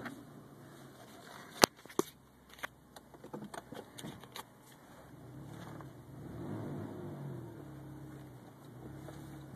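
Subaru Legacy boxer engine running at low revs with nothing fitted before the throttle plate, heard from inside the cabin. In the first half comes a string of sharp clicks and knocks, the loudest about one and a half seconds in; after that the engine hum carries on steadily.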